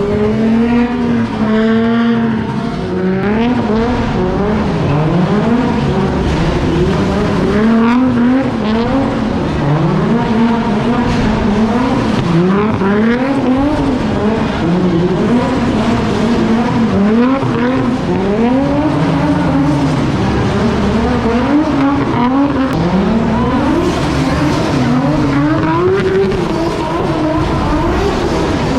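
Car engine revved hard over and over, its pitch climbing and dropping every second or two, with tyres squealing as the car drifts.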